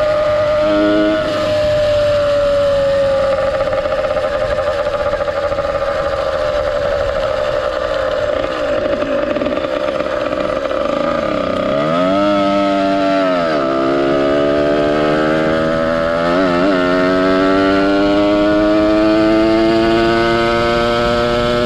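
Ported 100cc two-stroke engine of a motorized bicycle, fitted with a reed valve, 21mm OKO carb and YZ85 expansion pipe, running while riding. Its pitch sags slowly, drops off the throttle about halfway through and revs back up, blips once more, then climbs steadily near the end.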